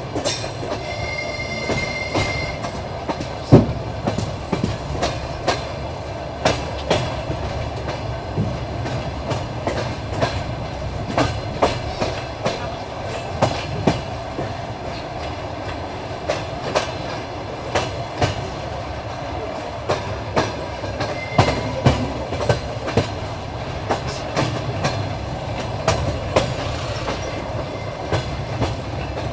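Train wheels clattering over rail joints on a steady run, with irregular sharp knocks over a continuous rumble, the loudest about 3.5 s in. A brief high ringing tone sounds near the start.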